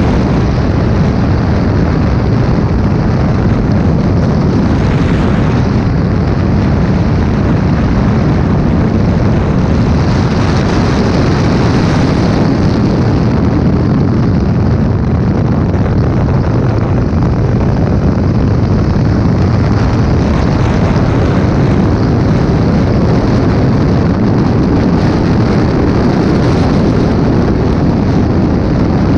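Porsche 917/10 Can-Am car's twin-turbocharged flat-twelve running at speed, heard from a helmet camera with heavy wind buffeting on the microphone, steady and loud throughout.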